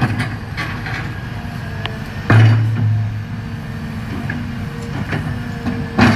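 Cat M322F wheeled excavator's diesel engine running steadily, with scattered knocks and one loud bang a little over two seconds in, after which the engine note is louder for a moment.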